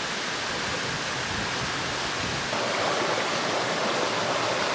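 Creek water rushing steadily, getting a little louder about halfway through.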